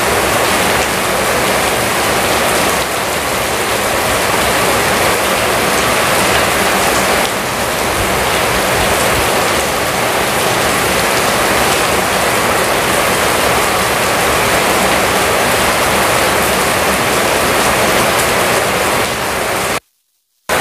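Steady rain falling on a paved yard, an even rushing hiss; it cuts off suddenly to silence near the end.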